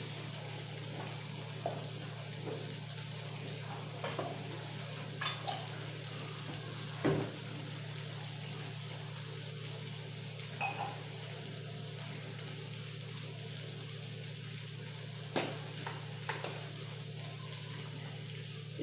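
Ground masala frying in oil in a pan on a gas burner, a steady low sizzle, with a few light clicks and knocks from a jar and spoon being handled. The loudest knock comes about seven seconds in.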